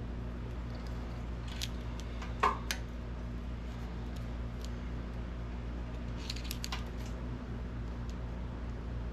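A few light clicks and taps from small tools handled against a steel tank while a cut line is marked out, the sharpest about two and a half seconds in and a small cluster near six and a half seconds, over a steady low hum.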